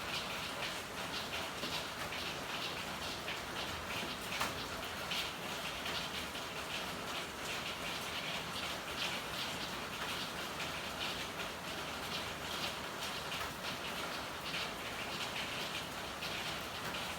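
Steady rain falling in an alley, a dense, irregular patter of drops on hard surfaces.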